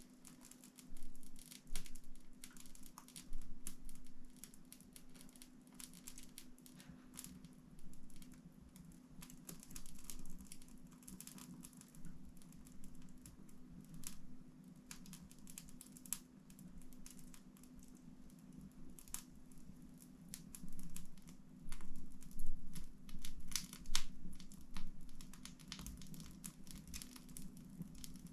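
Wood fire in a fireplace crackling, with irregular sharp snaps and pops over a steady low hum; the pops come thicker and louder about a second in and again late on.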